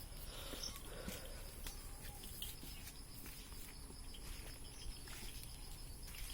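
Faint goat-shed sounds: goats shifting about, with scattered light knocks and hoof steps and a faint steady high tone behind them.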